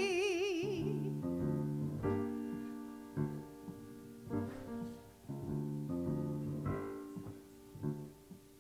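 The end of a sung note held with vibrato fades out in the first second. Then a piano plays a slow, sparse interlude of separate chords.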